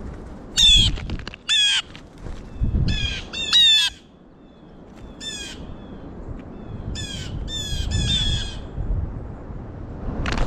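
Blue jays giving repeated harsh jeer calls, short and raspy, singly and in pairs.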